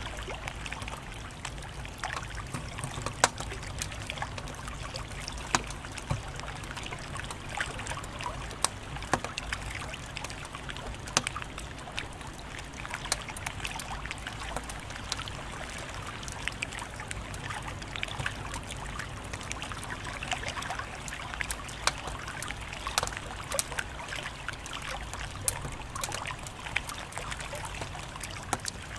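Wood fire crackling: irregular sharp pops and snaps over a steady hiss and low rumble of the flames.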